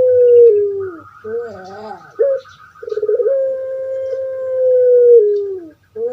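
Puter pelung dove (Streptopelia risoria) calling loudly. One long note ends by stepping down in pitch, followed by a short rolling gurgle and a brief clipped note. Then comes another long, steady note of about three seconds that also drops at its end.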